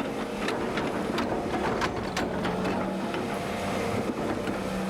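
Caterpillar excavator's diesel engine running steadily while digging, with scattered clicks and knocks over the engine drone.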